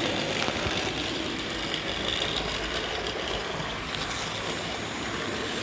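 Model train running along its track, a steady mechanical running noise that cuts off suddenly at the end.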